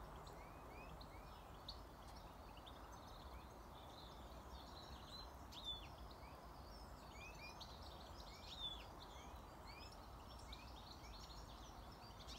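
Small birds in a tree chirping and singing: a faint chorus of many short, quick chirps overlapping throughout, over a steady low outdoor background noise.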